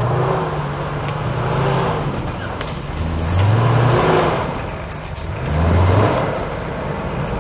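Off-road 4x4's engine revving hard in three surges, its note rising and falling, as the vehicle works through the course.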